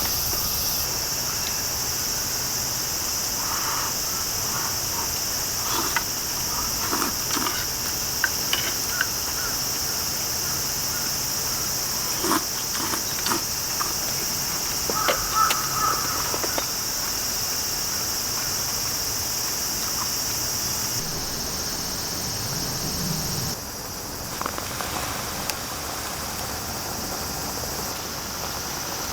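Steady high-pitched drone of a summer insect chorus, with scattered light clicks and knocks over it in the first half; the level drops a little about two thirds of the way through.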